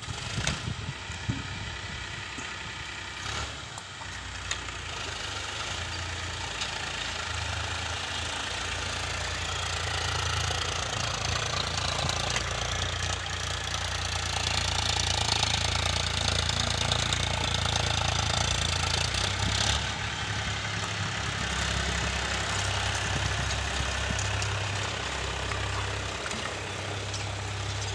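Diesel farm tractor engine running steadily as it works a field, its low note shifting up and down in pitch. It grows louder toward the middle, as if the tractor comes closer.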